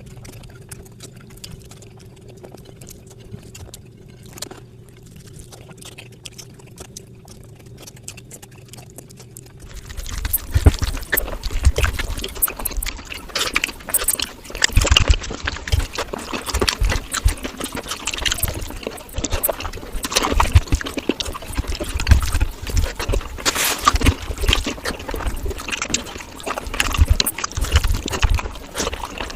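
Close-miked eating sounds of a mouthful of fish curry and rice: faint wet clicks at first, then from about ten seconds in loud, wet chewing and lip-smacking that goes on without a break.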